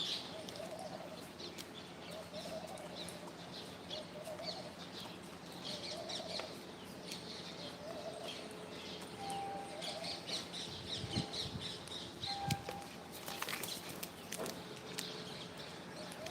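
Birds chirping and twittering, with a soft low call repeating about once a second through the first half and a few light knocks after the middle.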